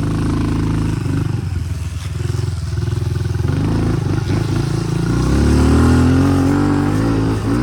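Honda CRF110 pit bike's small single-cylinder four-stroke engine running on the track, the revs going up and down as the rider shifts and throttles, climbing to its loudest about five to six seconds in.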